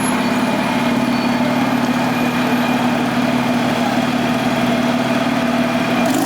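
Porsche 911 GT2's twin-turbo flat-six engine idling steadily.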